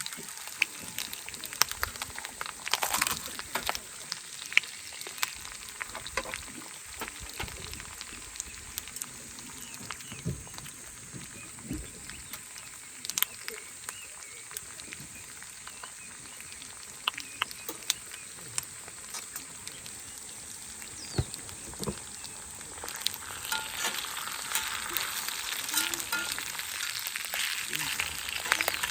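Steak sizzling in a small cast-iron skillet over a campfire, a steady hiss with scattered sharp pops; the sizzle grows louder near the end.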